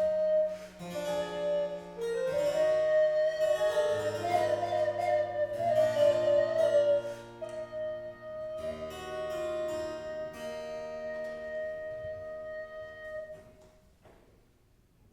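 Baroque chamber music: a recorder plays a sustained melody over a harpsichord and a held bass line. The music dies away near the end, as a movement closes.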